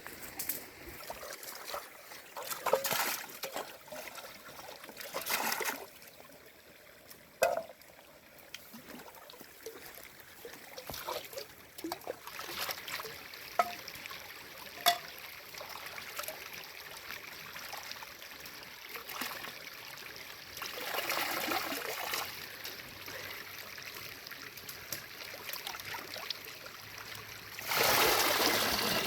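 Water trickling and splashing in several short spells over a low running-water background, with a few sharp clicks in between.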